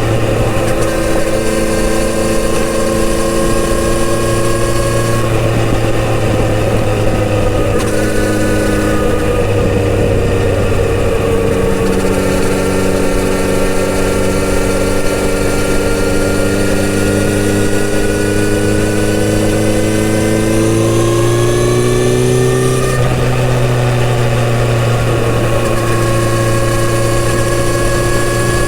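Kawasaki Z900RS inline-four engine running through its stock exhaust while the bike is ridden. The engine note holds steady in stretches, changes a few times, and climbs in revs about twenty seconds in before settling again.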